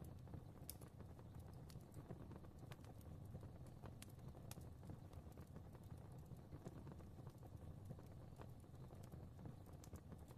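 Fire crackling faintly: irregular small pops and snaps, a few a second, over a low steady rumble.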